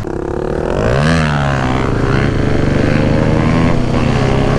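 Husqvarna 701's single-cylinder four-stroke engine under throttle on the move, its pitch rising about a second in and then holding steady, with wind rush over the helmet microphone.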